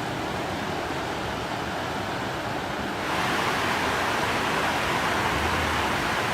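Steady rushing of turbulent water, an even roar that grows louder and brighter about three seconds in.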